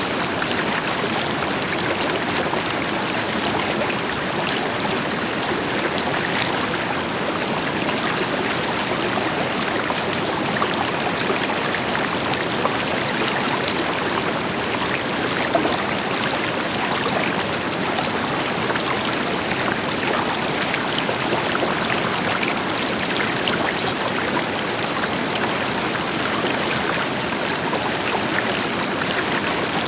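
River water flowing steadily over rocks, a constant rushing with fine splashing, and a distant waterfall adding a deeper rush beneath it.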